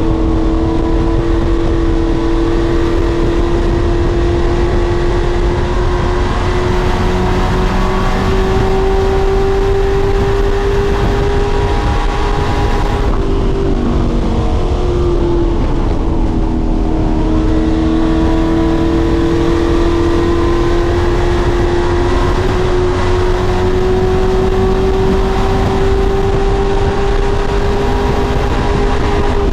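Racing truck engine running hard under throttle, its note climbing slowly, dipping briefly about halfway through, then climbing steadily again.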